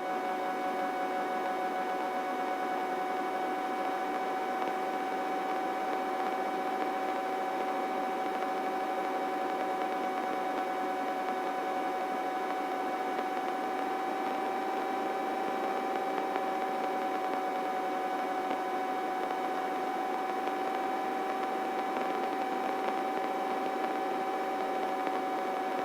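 Steady whine and hiss of a helicopter in flight, heard through the cockpit intercom. One dominant tone and several higher ones hold constant pitch, with no rotor beat coming through.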